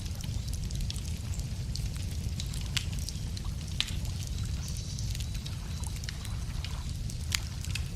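Wood fire crackling, with irregular sharp pops and snaps from the burning logs over a steady low rumble; two louder pops about three seconds in and near the end.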